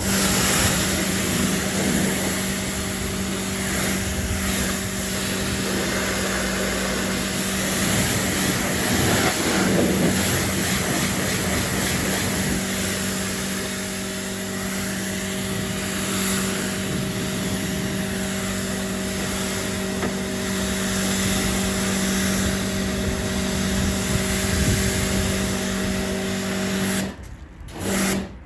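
AVA P80 pressure washer running, its pump humming steadily under the hiss of the high-pressure water jet spraying onto the car. The spray cuts off near the end, then comes back for a brief burst.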